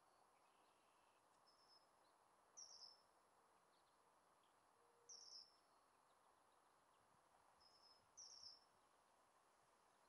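A small bird's faint, short high-pitched chirps, three times, about two and a half seconds apart, over a faint steady hiss of outdoor background.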